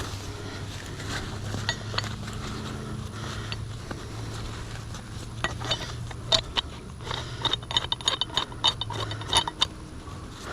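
Metal recovery rigging hardware, such as shackles and a winch hook, clinking and clanking as it is handled, in a quick run of sharp ringing clinks in the second half. A low steady hum runs underneath.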